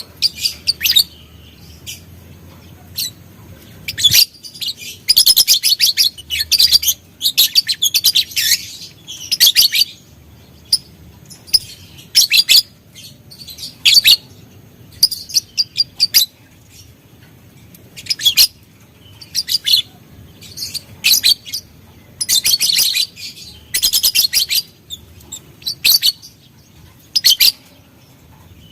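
Lovebird chattering in repeated bursts of rapid, shrill, high-pitched chirps, each burst lasting a second or two with short pauses between.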